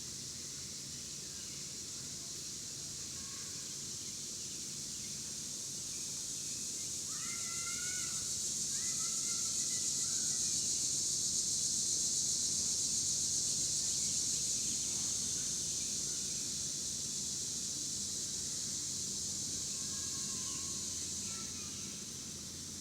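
Outdoor ambience dominated by a steady, high-pitched drone of insects that swells louder towards the middle and then eases off. Over it come a few short bird calls, a cluster about a third of the way in and fainter ones near the end.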